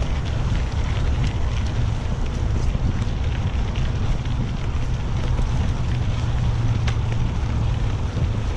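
Wind buffeting a GoPro Hero 6 action camera's microphone while riding a mountain bike along a dirt trail: a steady, heavy low rumble with a hiss over it and scattered light clicks.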